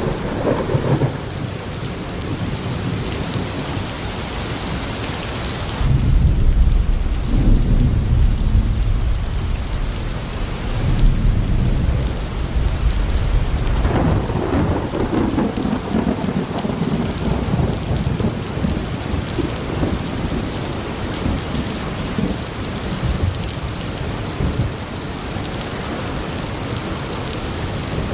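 Steady rain hissing, with low rolls of thunder swelling up about six seconds in and again about halfway through.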